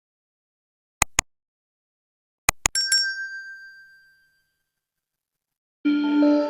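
Two sharp clicks, then a quick run of clicks and a bright metallic ding that rings out and fades over about a second and a half; music starts near the end.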